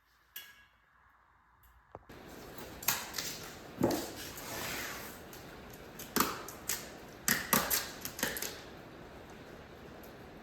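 Several sharp knocks and clicks at irregular intervals, starting about two seconds in over a steady faint hiss.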